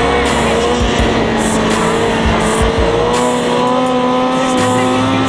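Kawasaki Ninja ZX-6R inline-four sport bike engine held at steady high revs, its pitch rising a little about three seconds in.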